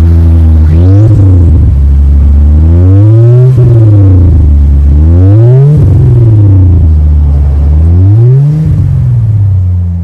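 Mercedes C300's turbocharged four-cylinder engine revved about four times through a custom dual exhaust with a Magnaflow X center muffler and Street Demon rear mufflers. Each rev climbs, then drops back toward idle.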